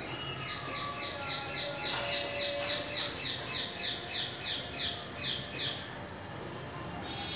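A bird calling a rapid series of about eighteen short, shrill, falling notes, about three a second, slowing slightly before stopping about six seconds in, over steady low background noise.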